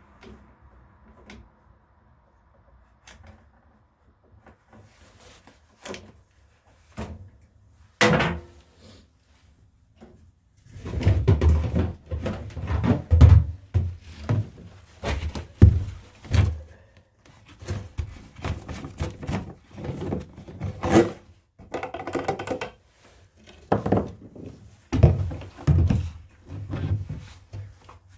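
Irregular knocks, clunks and rattles of hands and tools working on a mower engine's fuel line and hose. There is one sharp knock about eight seconds in, then a dense run of handling clunks through the second half.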